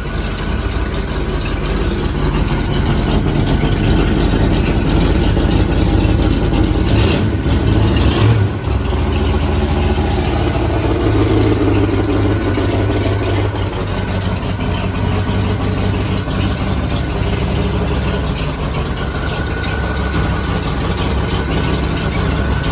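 Freshly rebuilt 428 Cobra Jet big-block V8 of a 1970 Mercury Cougar Eliminator idling steadily on its first run after restoration, with a brief unsteadiness about eight seconds in.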